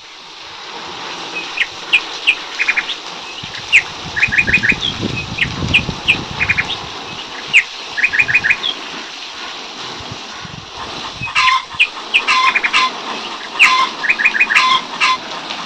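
Small birds chirping: quick runs of three or four short high notes recur every couple of seconds, with single sharp notes in between. The calling grows louder and busier in the last few seconds.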